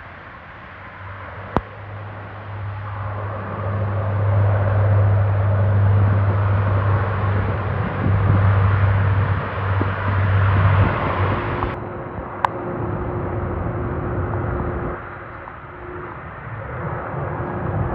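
Jet airliner's engines passing close by, a rushing roar with a low hum that swells over the first few seconds, holds, then fades after about eleven seconds.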